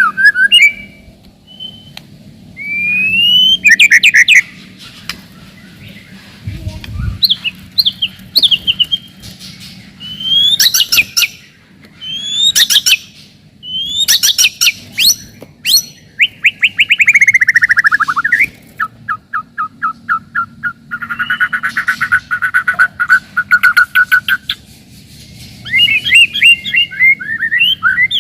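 White-rumped shama (murai batu) singing a varied, loud song of rising whistles, rapid trills and falling buzzy runs, in short bursts with brief pauses.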